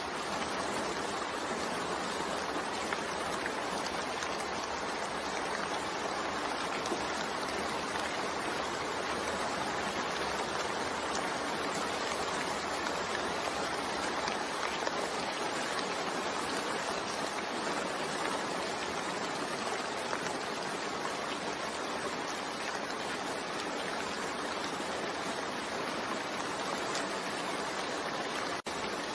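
Steady rain falling, an even unbroken hiss of water with no distinct drops or other events; the level dips for a moment just before the end.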